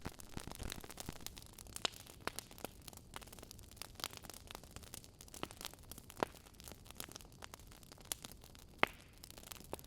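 Wood fire crackling in a fireplace: irregular sharp pops and snaps over a faint hiss, the loudest snap near the end.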